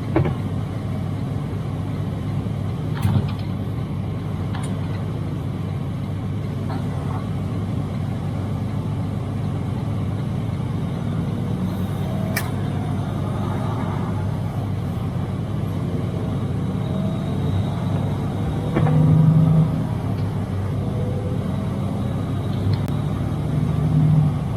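Inside the cab of a Freightliner semi with a Detroit DD13 diesel: a steady engine and road drone while driving at highway speed, with a few brief clicks and a couple of short louder swells.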